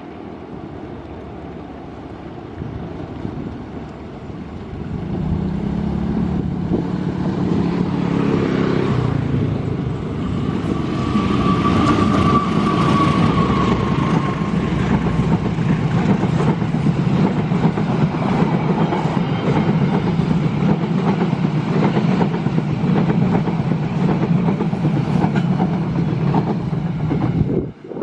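A train passing at speed on a curve: its engine hum grows louder over the first several seconds, then the wagons rattle and clack along the rails in a dense, continuous run. A brief high tone sounds about twelve seconds in, and the sound cuts off suddenly at the end.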